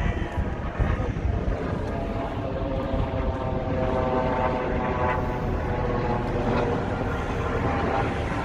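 Steady engine hum with a pitched drone that grows a little stronger about two seconds in, over a constant low rumble.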